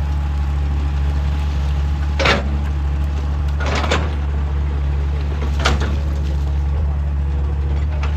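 Hydraulic excavator's diesel engine running steadily under load, with three sharp knocks spaced a second or two apart, from the bucket striking rock.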